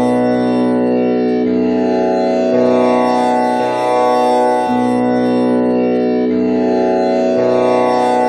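Tanpura drone tuned to B with komal Ni, its strings plucked one after another in a repeating cycle, a new pluck about every second or second and a half over a steady, unbroken ringing drone.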